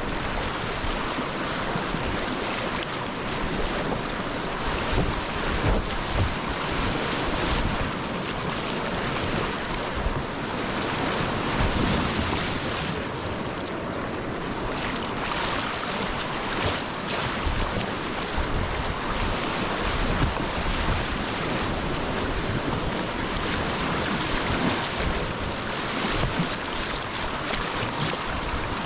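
Whitewater rapids (class II+) rushing steadily around a kayak, with irregular low rumbles buffeting the microphone.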